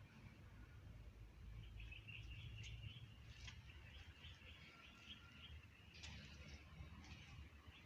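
Faint bird twittering: a run of quick chirps from about two seconds in, then a few scattered chirps later on, over a low steady rumble.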